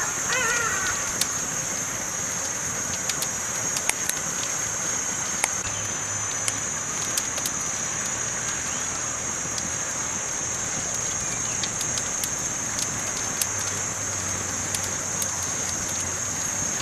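Campfire burning, with scattered sharp pops and crackles over a steady hiss. A bird calls briefly near the start.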